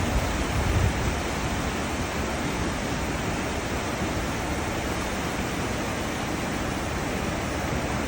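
Cruise ship's wake churning and rushing past the hull: a steady wash of water noise, with a brief low surge about a second in.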